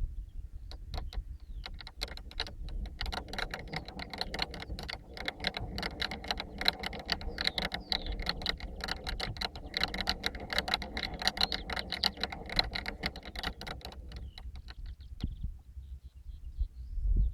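Rapid, dense mechanical clicking and rattling from the drivetrain of a Walkera V450D03 RC helicopter, starting about a second and a half in and stopping near the end. The uploader believes the noise comes from the main gear's freewheel (one-way bearing).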